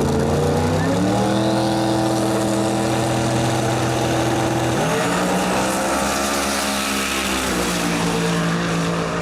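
Drag race car's engine at full throttle making a pass down the strip. Its pitch climbs over the first second, holds, drops about five seconds in, climbs again and steps down once more near the end.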